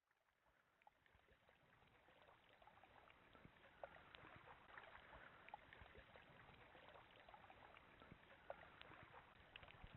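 Faint water lapping and dripping around a kayak, with scattered small splashes and ticks, fading in over the first couple of seconds and growing slowly louder.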